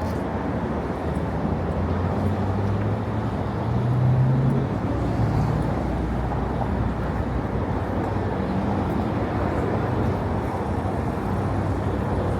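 City street ambience of steady traffic noise, with a low engine hum from passing vehicles that swells about four seconds in.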